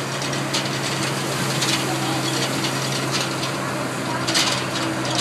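Mud truck's engine running steadily at idle, with a few short clicks over the hum.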